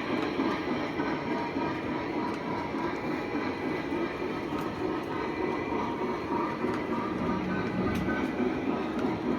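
Model trains, O-gauge by the makes discussed, running on the layout's track with a steady, continuous rumble.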